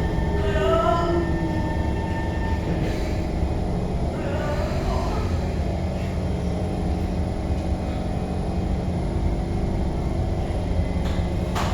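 Interior of a C151 MRT train running, with a steady low rumble of wheels on track and a motor whine that falls in pitch about a second in.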